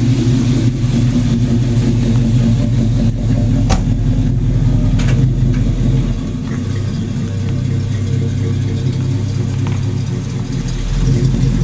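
A 1970 Chevrolet El Camino's 350 small-block V8 running with a steady low engine note; the lowest part of the sound drops away about six seconds in and returns near the end. Two brief clicks are heard around the middle.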